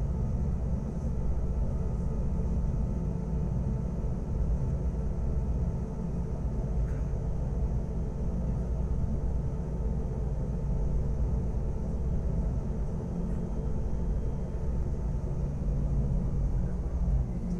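Wengernalp Railway electric rack train running steadily: a low rumble with a steady hum from its motors and gearing.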